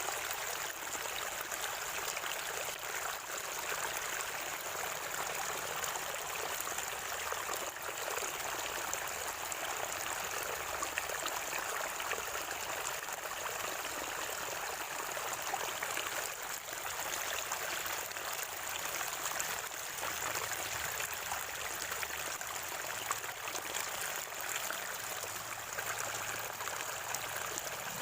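Water of a natural spring running and gurgling in a steady, unbroken stream.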